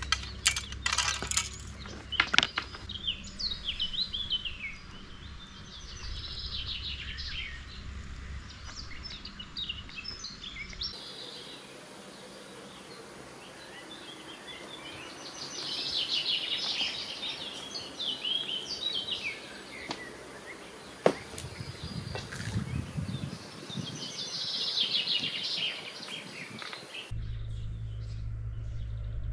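Songbirds singing, many quick chirps and trills repeating through the whole stretch. A few sharp clicks of fishing tackle being handled come in the first two seconds.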